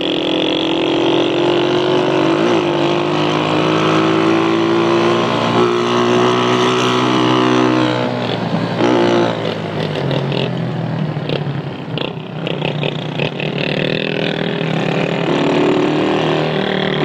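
Small motorcycle engine running under way on a dirt road, a steady note for the first half. About eight seconds in the note drops away and turns rough and uneven for a few seconds, then steadies again near the end.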